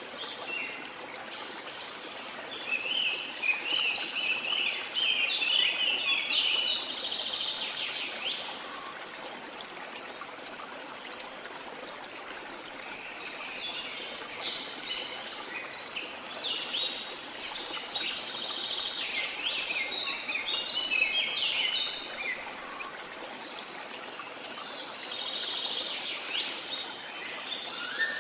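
Steady rush of flowing water with songbirds chirping over it in three spells of quick, high, twittering notes, the longest in the first third and the middle of the stretch.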